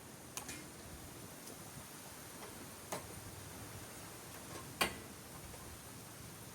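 Three sharp metallic clicks about a second or two apart, the last one loudest, from hand tools and scrap metal parts being handled while an appliance is stripped for scrap.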